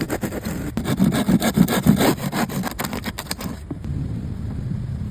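Rough scraping with many short, uneven knocks, which changes abruptly about three and a half seconds in to a steady low rumble.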